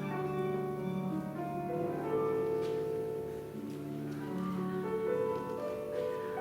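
Live chamber ensemble improvising: several held notes sounding together and shifting in pitch every second or two, with piano among the instruments.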